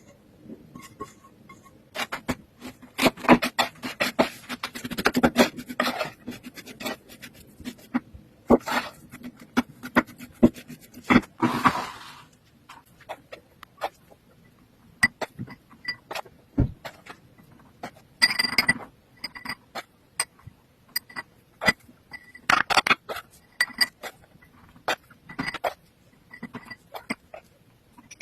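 Food-preparation handling: irregular knocks and clicks of utensils and dishes, with a few short bursts of scraping.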